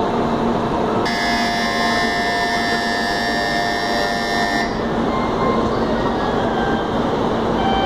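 Shinkansen bullet train rolling slowly into a platform and coming to a stop, a steady rushing noise throughout. From about a second in, a steady high-pitched multi-tone squeal sounds for nearly four seconds and then cuts off suddenly.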